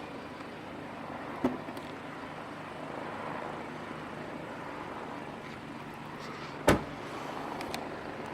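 Steady background hum with two sharp knocks, one about a second and a half in and a louder one near the end.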